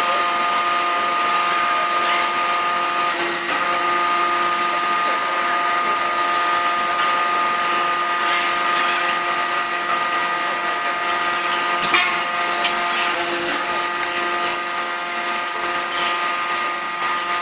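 Steady hum of running industrial machinery with several high whining tones held throughout, with a few faint knocks about twelve and thirteen seconds in.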